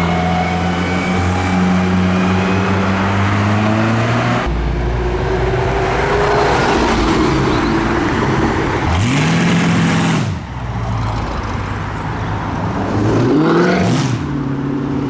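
Car engines accelerating away with rising pitch, then two quick throttle blips that rev up and drop back, about four seconds apart, as modified cars leave.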